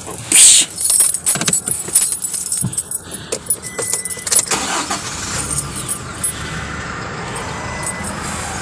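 Keys jangling and clicking at a Toyota's ignition, then, about five seconds in, the engine starts and settles into a steady idle. A thin steady warning tone sounds in the cabin from about halfway through.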